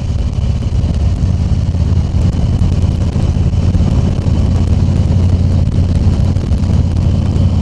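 Harley-Davidson Tri Glide Ultra trike's V-twin engine running steadily on the move, with wind and road noise on the helmet microphone.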